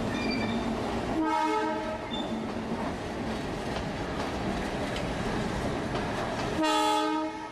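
Train running with a steady rumbling noise, its horn sounding two blasts: one a little over a second in, lasting under a second, and another near the end.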